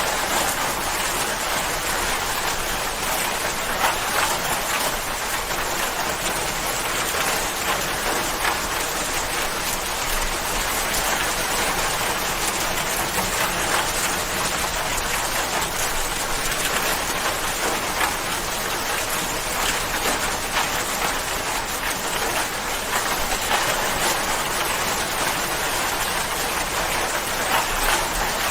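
Steady rainfall, a dense even patter of many raindrops.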